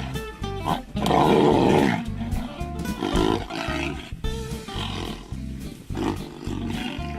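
A large animal roaring, loudest about a second in with shorter roars after, over background music with a steady beat.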